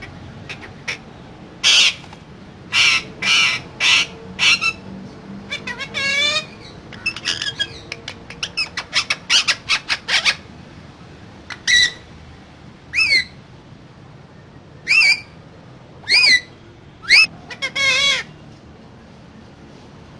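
Pet parakeet squawking: a string of short, harsh calls, with a quick run of them in the middle and several loud calls that bend down and back up in pitch near the end.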